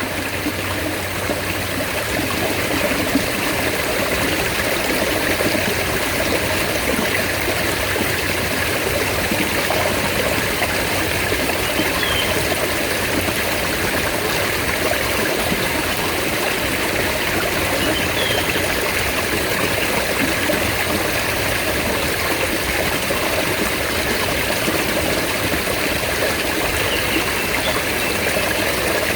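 Mountain stream water running: a steady, unbroken rush of flowing water.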